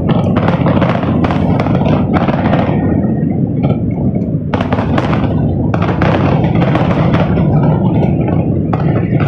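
Fireworks grand finale: a rapid barrage of firework explosions, many bangs overlapping over a constant low rumble.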